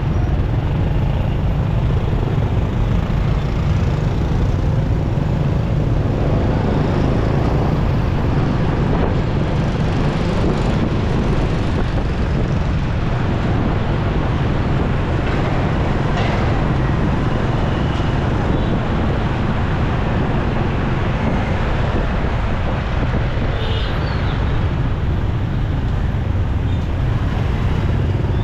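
Steady road noise from riding a motorcycle in city traffic: a constant low rush of wind and engine, with passing vehicles mixed in.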